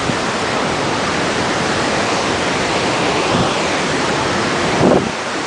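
Waterfall: a steady, loud rush of falling water, with a brief louder bump near the end.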